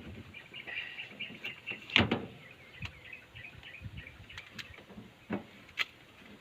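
A bird twittering in short chirps for the first couple of seconds, over scattered knocks and clicks of handling; the loudest is a sharp knock about two seconds in.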